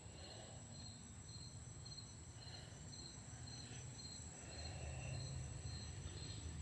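Crickets chirping faintly outdoors, about two chirps a second, over a steady high-pitched insect drone.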